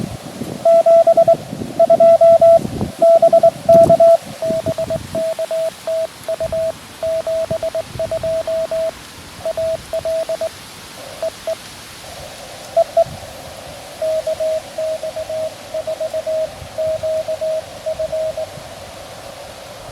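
Morse code from a QRP Labs QMX transceiver: a single steady tone keyed on and off in dots and dashes. It is loud and full for the first few seconds, then quieter over a steady receiver hiss.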